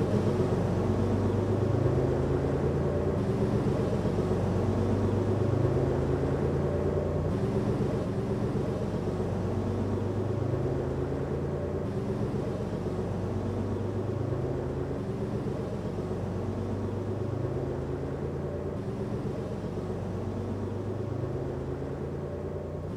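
Bus engine running as it drives, its pitch stepping up and dropping back every few seconds.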